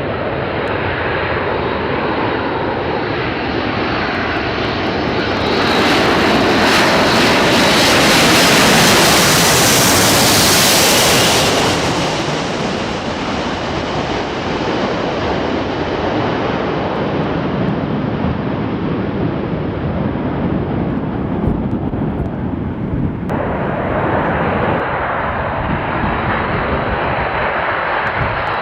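Jet airliner's engine noise as it flies past, swelling to its loudest and brightest about six seconds in and easing off after about twelve seconds. The sound changes abruptly near the end, like a cut to another shot.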